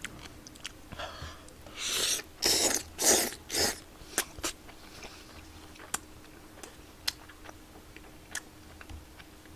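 Close-up eating sounds of tteokbokki: small wet mouth clicks of chewing, with four loud breathy rushes of air close together between about two and four seconds in.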